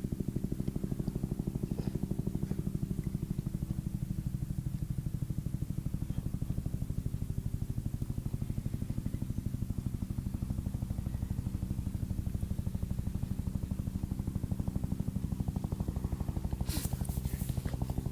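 A steady low, fast-pulsing mechanical drone, like an engine running at idle, going on without change. A short rustle comes near the end.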